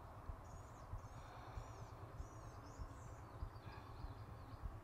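Faint outdoor ambience: small birds chirping in short, high-pitched curved notes, over a low steady rumble.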